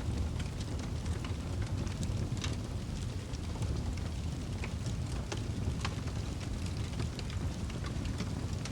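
Fire in a fireplace crackling, with irregular sharp pops and snaps over a steady low rumble of the flames.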